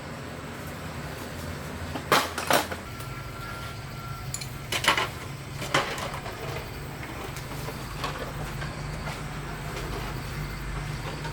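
A steady low mechanical hum with several sharp knocks and clacks, two close together about two seconds in and two more about five and six seconds in.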